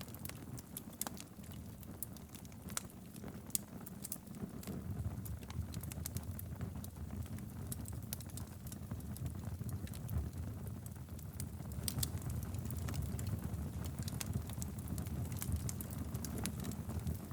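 Wood fire burning in a fireplace: a steady low rumble of flames with irregular crackles and pops of burning logs.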